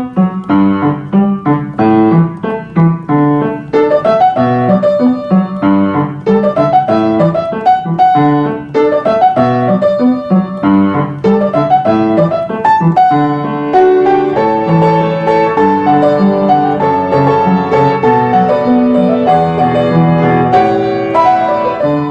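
Solo piano music: a lively run of quickly struck notes and chords.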